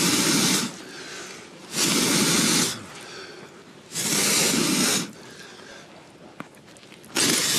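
Long blown whooshes of breath, four of them about two seconds apart, each lasting nearly a second.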